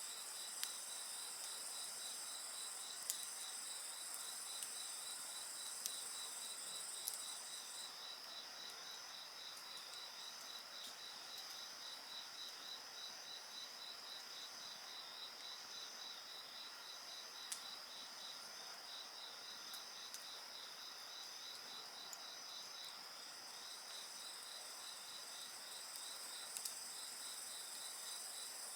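Several insects singing in the night together: one in a steady pulsing chirp a few times a second, another in a continuous high trill, and a still higher trill that drops out about eight seconds in and comes back near the end. A campfire adds a few sharp pops and snaps.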